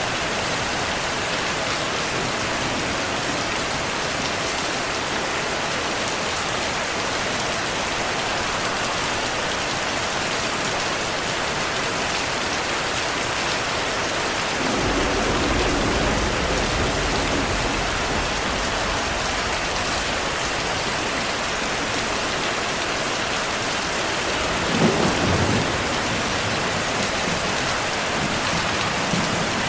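Steady heavy rainfall, with a low thunder rumble that rolls in about halfway through and lasts a few seconds. A sharper, louder thunderclap follows near the end.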